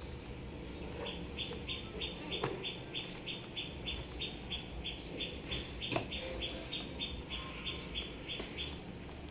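A bird chirping rapidly, a steady run of short high chirps about four a second, stopping shortly before the end. Two sharp snips of scissors cutting cardboard packaging stand out, the louder one about six seconds in.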